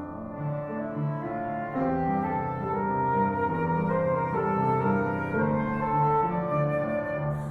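Concert flute and piano playing classical chamber music: the piano repeats low notes under a sustained flute melody, swelling a little about two seconds in.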